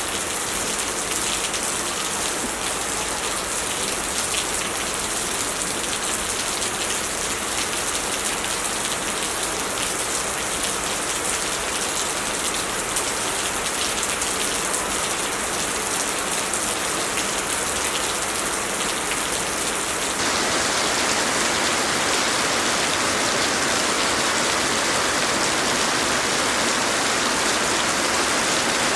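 Heavy rain falling steadily in a dense patter. About two-thirds of the way through, the sound changes abruptly to a slightly louder, fuller hiss.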